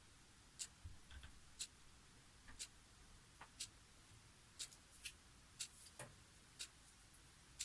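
Clock ticking faintly, one sharp click about every second, with a few softer clicks falling between the ticks.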